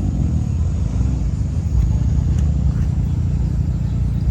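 Steady low rumble of car engines running, with no sharp changes.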